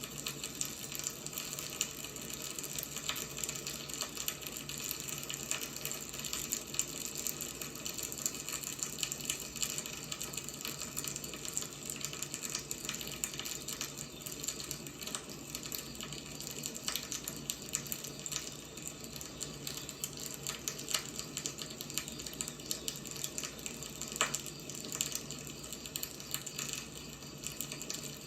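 Firewood burning, a steady hiss with frequent small crackles and pops.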